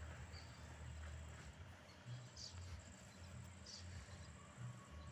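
Faint outdoor ambience: a steady high insect drone that drops in and out, a couple of short high chirps, and a low rumble underneath.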